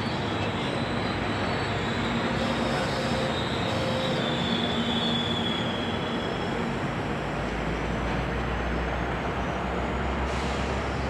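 GO Transit commuter train running by: steady rail and wheel noise with a faint thin high squeal over a low engine hum.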